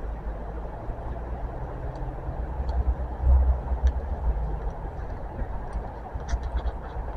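Low, uneven rumble swelling and easing in gusts, typical of wind buffeting the microphone on an open railway platform, with a few faint clicks near the end.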